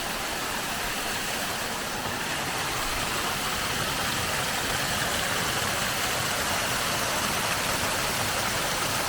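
Rushing snowmelt stream: a steady rush of water.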